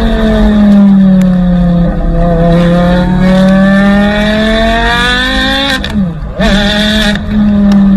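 Porsche Carrera GT's V10 engine running at high, loud revs: the pitch sags a little, then climbs slowly for a few seconds, breaks briefly about six seconds in, and then holds steady.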